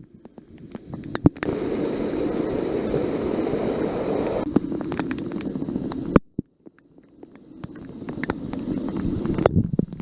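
Rushing water at a waterfall, with wind noise on the microphone. The sound stops suddenly about six seconds in, then builds back up.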